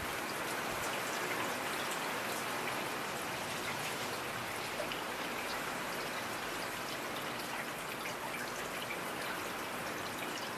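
Steady rainfall, a dense even hiss with scattered drops ticking on a surface.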